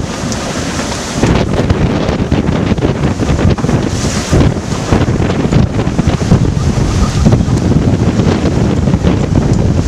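Strong wind buffeting the microphone on a sailboat running fast under headsail in rough seas, with water and waves rushing past the hull. The sound rises and falls in gusts.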